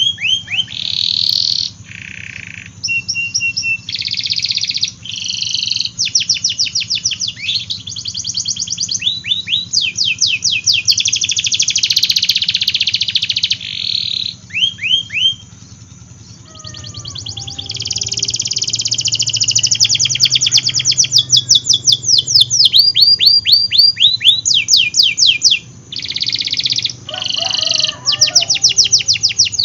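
Domestic canary singing a long, fast song of rapid trills, each phrase a quick run of repeated high notes, with a short lull about halfway through. A steady low hum runs underneath.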